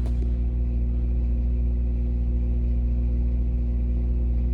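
Semi-truck's diesel engine running steadily with a low, even drone, heard from inside the cab.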